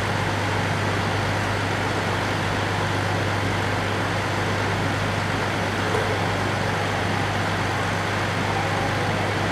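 Steady low hum over a constant rushing noise from a standing JR 415 series electric train's equipment.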